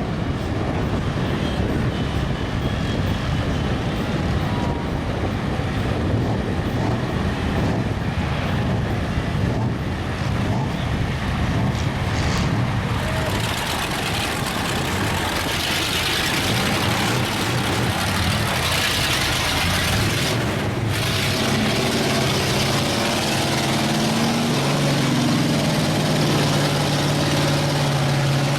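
Lifted mud-bogging trucks' engines running and revving in a mud pit, over a dense haze of noise. In the last third one engine's note rises and wavers as it is revved.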